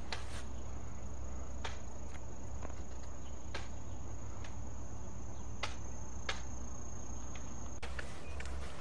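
An insect singing one steady, high-pitched trill that cuts off suddenly near the end, with a few sharp clicks scattered through it over a low, steady rumble.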